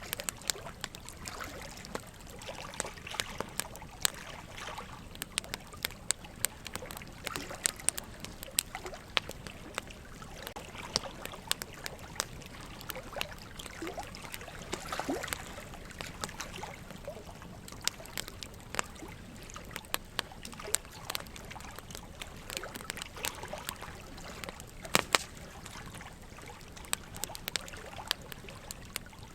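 Wood fire crackling, with frequent irregular sharp pops from the burning logs, a couple of them louder, over a steady trickle of running water.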